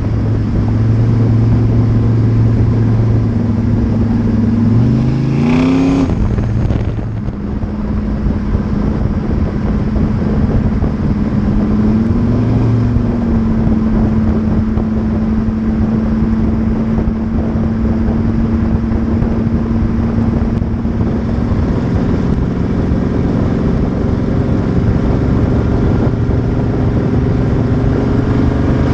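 1986 Chevrolet Monte Carlo SS small-block V8 through a Flowmaster exhaust, driving at steady speed with a constant drone, heard close to the rear tire over road and wind noise. About five seconds in the engine note rises briefly, then drops back and settles into an even cruise that climbs slowly near the end.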